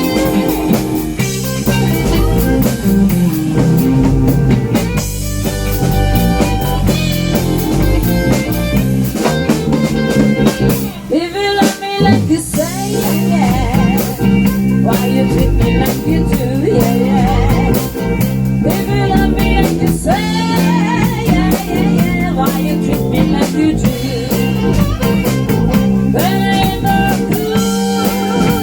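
Blues band playing an instrumental passage: an electric lead guitar plays bent, sliding notes over bass and a drum kit.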